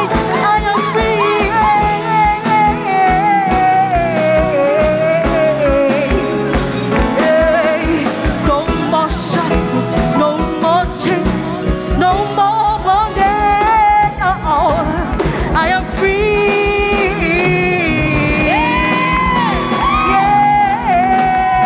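Gospel worship music: voices singing over a band with a steady drum beat, which becomes faster and denser about thirteen seconds in.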